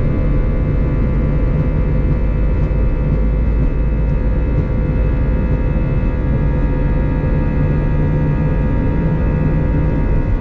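Cabin noise of an Airbus A320-214 at climb power just after takeoff: its CFM56 turbofan engines and the airflow make a steady, loud rumble, with several steady whining tones over it.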